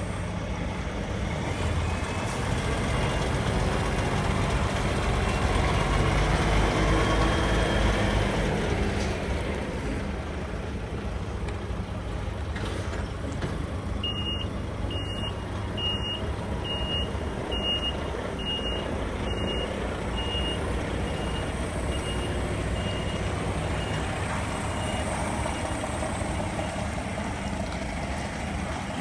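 Heavy truck diesel engine running, swelling for a few seconds near the start and then settling. About halfway through, a reversing alarm starts beeping at about two beeps a second, loud at first and then fainter.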